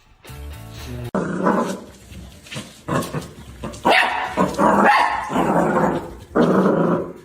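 A dog vocalizing loudly in a run of about five drawn-out barks and growls, starting about a second in as a short stretch of music ends.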